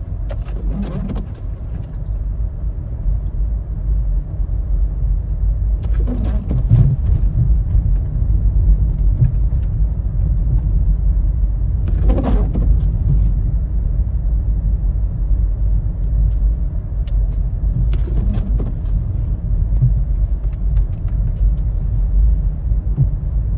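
Road and tyre noise of a front-wheel-drive Toyota Prius driving on a snowy, plowed road, heard from inside the car as a steady low rumble. A brief swishing sound recurs about every six seconds.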